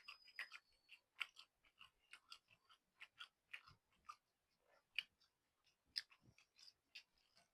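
Faint chewing of a mouthful of noodles: a run of soft mouth clicks and smacks, several a second, with a few sharper ones.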